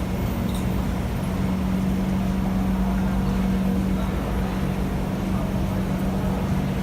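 Siemens C651 metro train giving off a steady, low-pitched electrical hum, with no rise in pitch.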